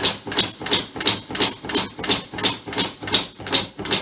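Homemade three-cylinder compressed-air engine running, its air exhausting in loud, hissing puffs about three times a second. It runs jerky and misses because cylinder 2's exhaust valve is not yet working.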